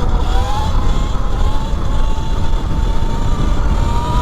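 E-Ride Pro SS 3.0 electric dirt bike's motor whining under way, its pitch climbing slowly as the bike gains speed. Heavy wind rumble on the microphone runs underneath.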